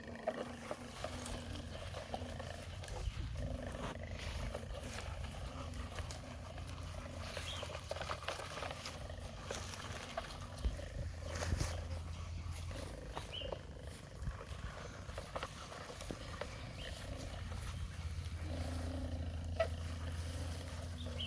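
Heavy diesel engine of construction machinery running steadily with a low rumble, with a few sharp knocks now and then.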